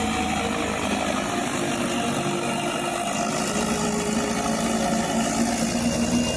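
Mahindra 575 tractor's diesel engine running steadily.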